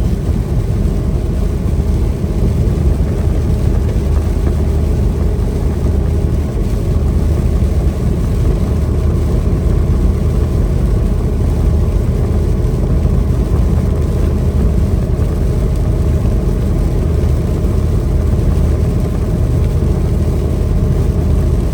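Semi truck driving at highway speed, heard from inside the cab: a steady low engine drone with road noise.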